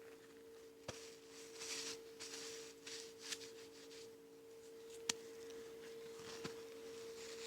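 Faint handling noises: soft rustling with a few sharp clicks, the loudest about five seconds in, over a steady low hum.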